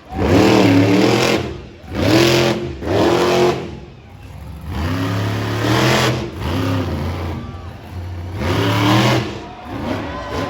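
Monster truck engine revving hard in about five bursts, each rising then falling in pitch, with one longer pull about halfway through.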